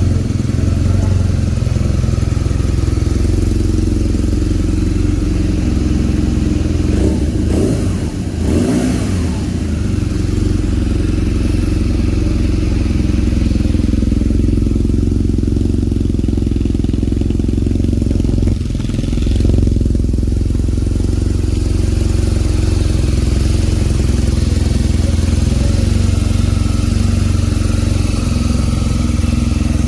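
BMW R nineT's boxer-twin engine running through its stock exhaust, a steady deep rumble. The sound shifts briefly about eight seconds in and again around nineteen seconds.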